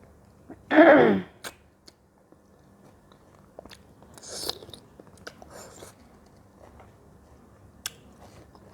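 Close-miked chewing and biting of fruit, with small wet clicks and crunches scattered throughout. About a second in comes a short voiced sound falling in pitch, the loudest thing here, and a brief hiss near the middle.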